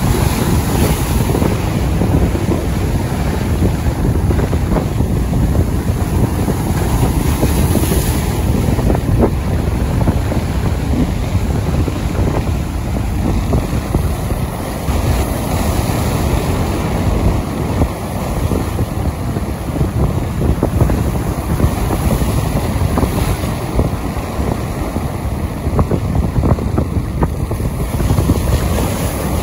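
Rain and wind, steady throughout, with wind rumbling on the microphone and scattered small ticks of drops.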